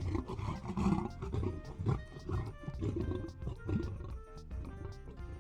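A big cat roaring and growling, loudest in the first two seconds, over background music with a steady beat.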